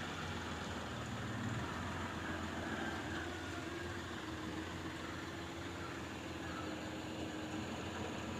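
Hyundai Grand i10's 1.1-litre three-cylinder CRDi diesel engine idling steadily, with the slight diesel noise expected of it.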